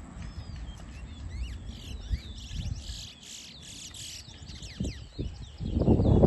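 A towa-towa (chestnut-bellied seed finch) singing a run of quick whistled glides and trills, the song counted in a bird song race. Near the end a loud low rustling noise starts and drowns out the lower sounds.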